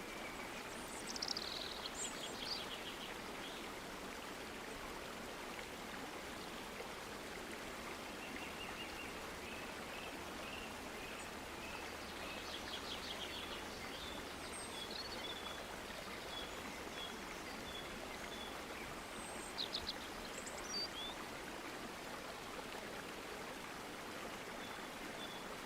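Outdoor field ambience: small birds chirping and trilling over a steady hiss. The loudest bird sounds are a falling call about a second in and a quick burst of chirps about three-quarters of the way through.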